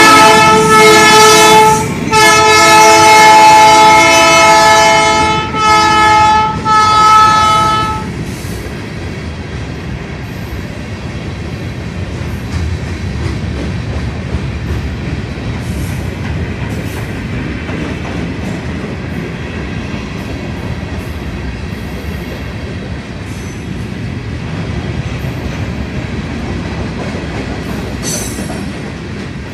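A diesel freight locomotive's multi-tone air horn sounds in several blasts, the last ending about eight seconds in. Then the freight cars roll past with a steady rumble and wheel clatter on the rails.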